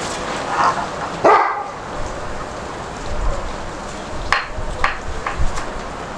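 A dog barking a few times, one loud bark just over a second in and a few shorter ones near the end, over wind buffeting the microphone.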